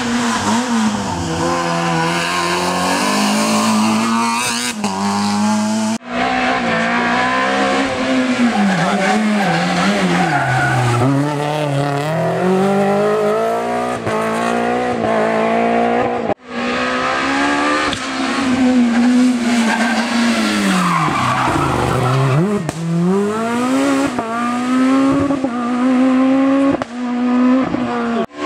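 Rally car engines revving hard on a stage, pitch climbing and dropping in steps through gear changes and sweeping down under braking and back up, with tyre squeal. The sound breaks off sharply twice, about six seconds in and again past the middle, as one car gives way to the next.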